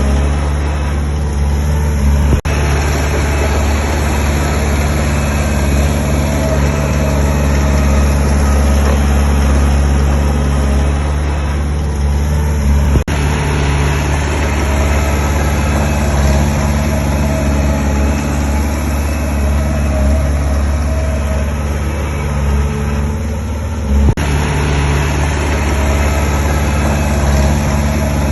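Heavy construction-machine diesel engine running steadily, with a few short sharp knocks: one about two seconds in, one around the middle and one near the end.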